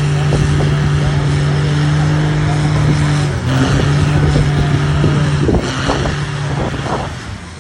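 A car engine running steadily at one speed, briefly dipping about three seconds in, then fading away over the last couple of seconds.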